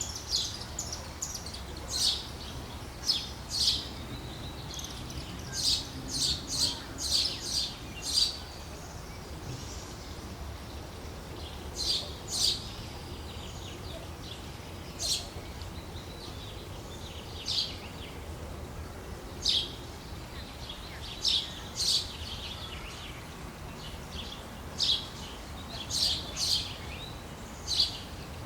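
Small birds chirping: short, sharp high calls, singly and in quick runs of three or four, repeating at irregular intervals over a low, steady rumble.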